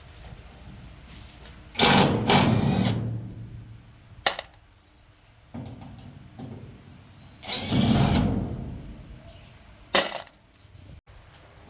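Workshop tool noise: two loud clattering knocks, about two and eight seconds in, each dying away over about a second, with short sharp clicks near four and ten seconds.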